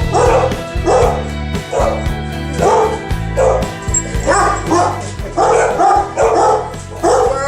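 A dog barking repeatedly, about a dozen short barks and yips, over background music.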